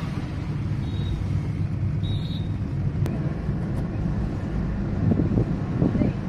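Steady low rumble of vehicle engine and road noise, with two brief high tones about one and two seconds in.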